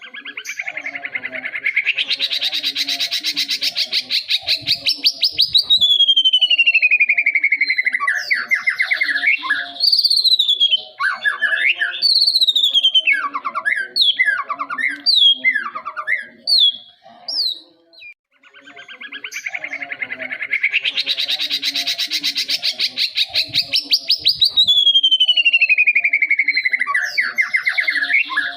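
Young white-rumped shama singing: a fast rattling trill that rises, then a long whistle gliding down, then a string of short, varied chirps. The same phrase sequence begins again about two-thirds of the way through.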